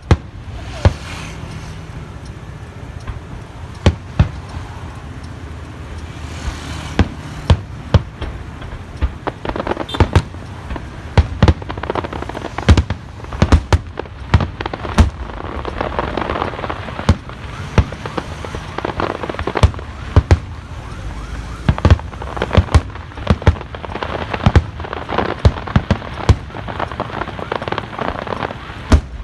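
Aerial fireworks shells bursting, a run of sharp bangs at irregular intervals, few at first and coming much thicker from about ten seconds in.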